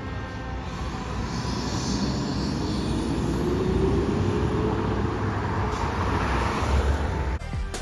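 Fire truck responding with its siren: a wail winding down in the first second or so, then a low siren tone slowly rising again, over heavy engine and road noise. The sound cuts off abruptly near the end.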